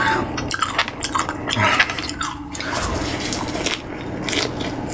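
Close-miked chewing of raw fish in a leafy ssam wrap: crisp crunches of fresh leaves mixed with wet mouth sounds, coming irregularly.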